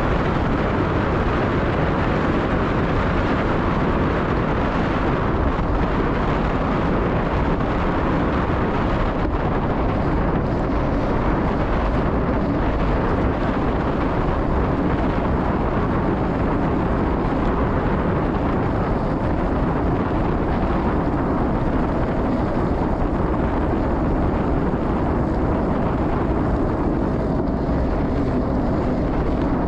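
Steady, loud wind rush on a camera microphone as a gravel bike speeds downhill, with no breaks.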